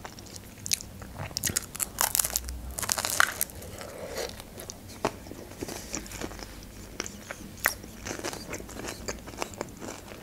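Close-miked crunching and chewing of a crisp fried pastry, with a run of louder crunches about two to three and a half seconds in and sharp mouth crackles throughout.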